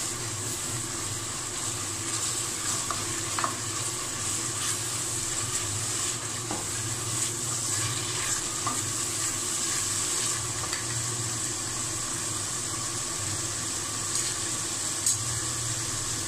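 Masala paste sizzling as it is fried in oil in an aluminium pressure cooker, stirred with a spatula that scrapes and taps against the pan now and then.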